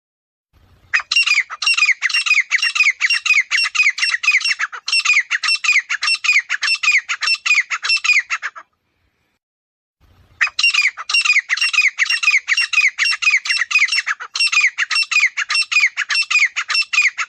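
Grey francolin calling: long bouts of loud, harsh notes repeated about three times a second, each note falling in pitch. One bout starts about a second in and stops after about eight seconds, and a second bout begins about ten seconds in.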